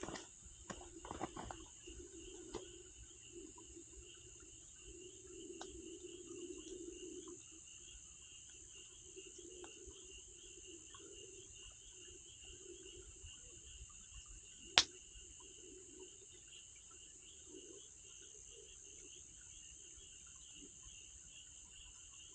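Crickets chirring steadily over a low, flickering murmur, with scattered faint ticks from the campfire and one sharp, loud crack about fifteen seconds in, as the burning firewood pops.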